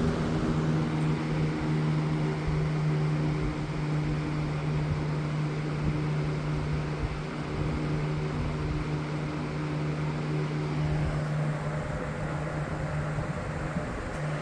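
Galaxy 3723 20-inch box fan running on medium speed: a steady motor hum over the whoosh of moving air, getting slightly quieter over the stretch as it settles from high.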